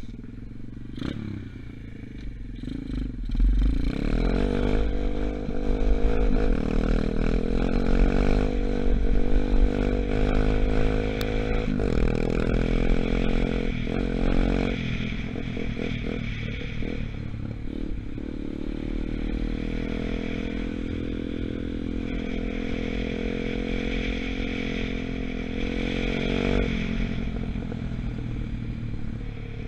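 125cc Gunshot dirt bike engine, new and still being broken in, running under way and revving up and down, its pitch rising and falling repeatedly, then holding steadier for a while before easing off near the end.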